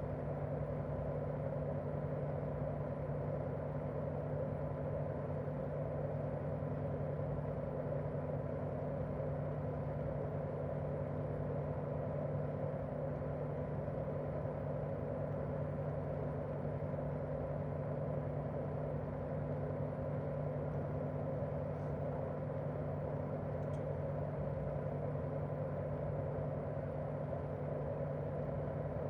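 Daikin R28RMV mini-split outdoor unit running steadily in cooling mode: an even hum with a whoosh of the propeller fan and a few steady tones from its twin-cylinder swing compressor, with no change in speed.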